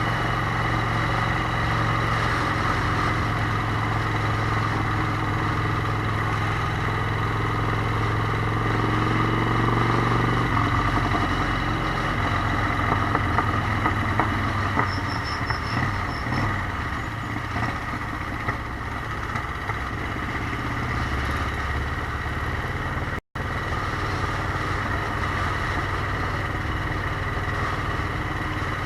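Motorcycle engine running under way, with wind rush. The engine note holds steady, then changes and drops about a third of the way through. The sound cuts out for an instant about two-thirds of the way through.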